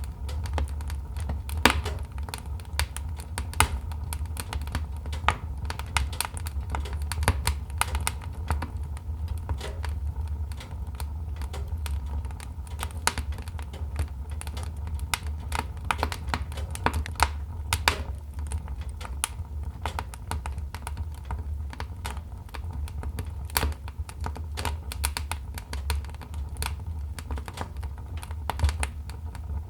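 Wood fire in a fireplace crackling: irregular sharp snaps and clicks over a steady low rumble.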